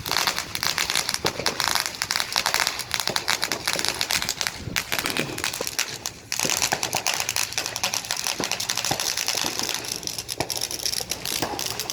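Ground fountain firework spraying sparks with a dense, continuous crackle, briefly dropping away about six seconds in before crackling again.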